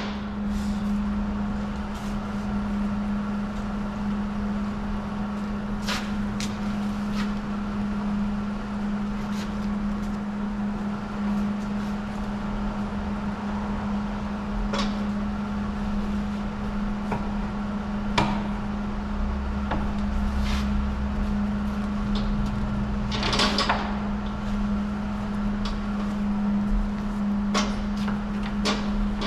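A steady low hum with scattered knocks and clicks, and a brief rushing noise lasting about a second late on.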